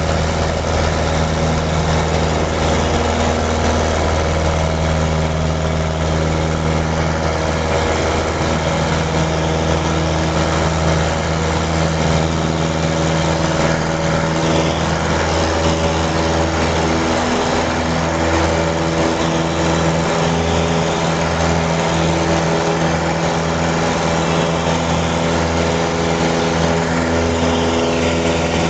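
Cessna 172's piston engine and propeller running steadily during takeoff, a loud even drone with small shifts in pitch.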